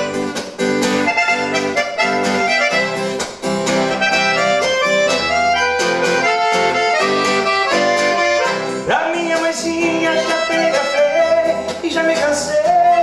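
Instrumental break of a Brazilian country song: accordion playing the melody over a steady strummed rhythm accompaniment.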